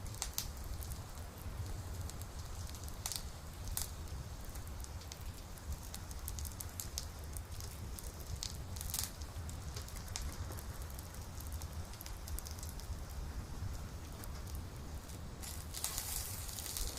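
Wood campfire burning, crackling with scattered sharp snaps and pops over a steady low rumble; near the end a denser burst of crackling hiss lasts about a second.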